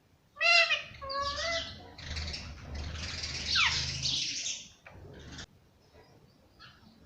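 Indian ringneck parakeet calling: two short pitched calls in the first two seconds, then a harsher, noisier stretch with a quick falling squeal in the middle, after which it goes quiet.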